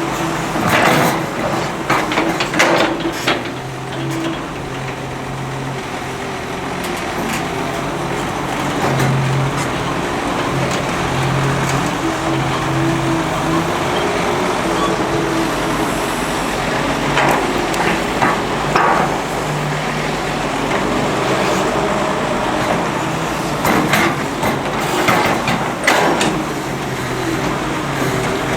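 Heavy diesel excavator engine running steadily under load, with intermittent metallic clanks and knocks, in clusters near the start, around the middle and toward the end.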